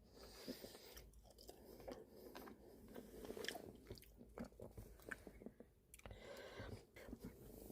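Faint close-up sounds of a person chewing and biting food, with small irregular wet clicks.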